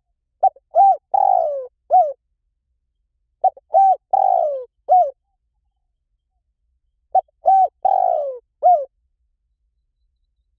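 Spotted dove cooing: three phrases about three and a half seconds apart, each a quick run of four or five coos with a longer, falling note in the middle.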